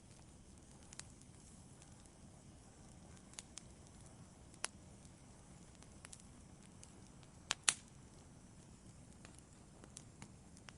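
Wood fire burning quietly: a soft, steady low hiss with scattered sharp crackles and pops at irregular intervals, the loudest two in quick succession about seven and a half seconds in.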